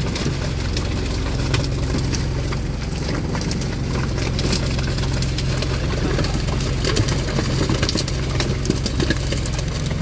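Engine on a small fishing boat running steadily with an even hum, with scattered light knocks and clicks over it.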